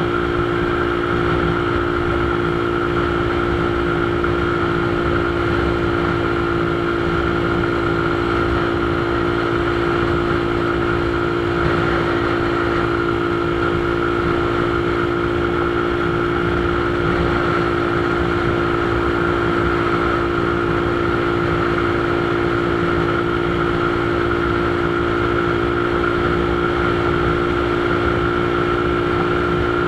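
Motorcycle engine running at a steady cruising speed while riding, holding an even pitch, with road noise beneath.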